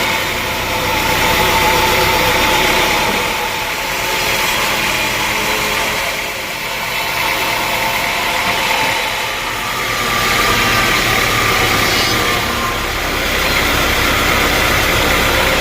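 Sawmill machinery running: a steady engine-like drone that swells and dips in loudness every two to three seconds.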